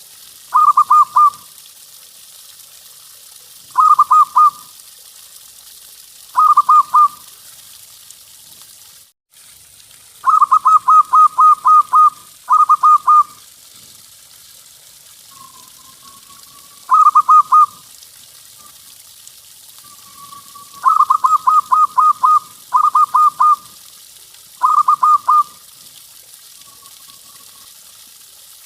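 Zebra dove (perkutut) cooing: loud phrases of quick repeated coos every couple of seconds, some short runs of three or four notes and some longer runs of six or seven, with a few soft single coos between. A steady faint hiss runs underneath.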